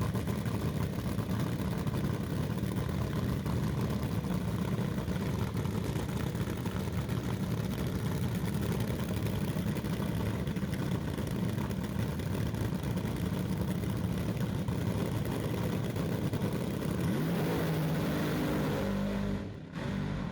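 Nitromethane-burning fuel altered drag car engine running hard and steadily, with a rising rev near the end before the sound cuts off suddenly.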